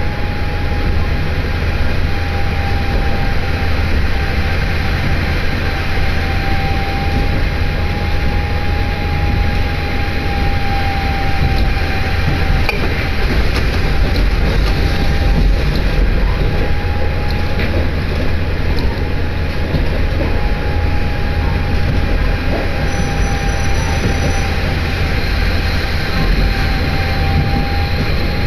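Inside a diesel railcar running at speed: steady running noise of engine and wheels on the rails, heavy in the low end, with a steady whine over it.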